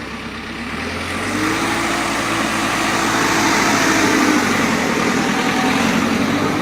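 Motor vehicle engine running with a steady hum, growing louder over the first second or so and then holding.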